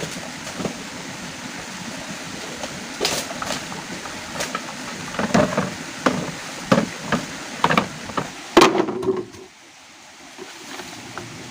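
Steady rain hiss with a run of knocks and clatters from handling things by hand, the loudest about eight and a half seconds in. The rain noise drops away suddenly about nine seconds in, leaving a quieter background.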